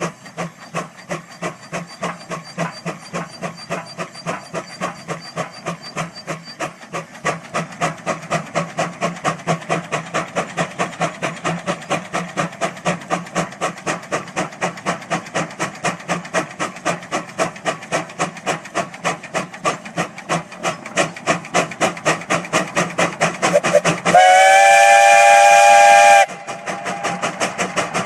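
Steam traction engine exhausting in a steady rhythmic chuff, about three beats a second, as it works hard climbing a hill. Near the end its steam whistle blows loudly for about two seconds, a chord of several tones, then the chuffing carries on.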